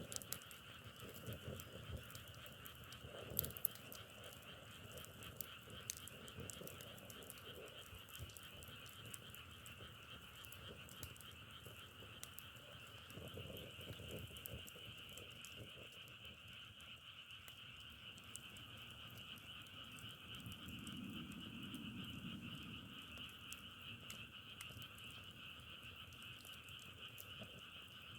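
A chorus of frogs calling continuously, a dense even trill, with scattered faint clicks over it.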